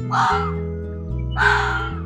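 A bird giving two harsh, caw-like calls of about half a second each, the second about 1.4 seconds after the first, over background music with steady held chords.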